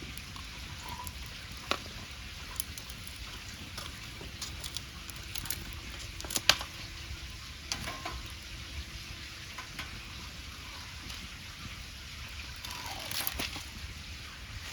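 Wood bonfire crackling: scattered snaps and pops over a steady hiss, the sharpest pop about six and a half seconds in.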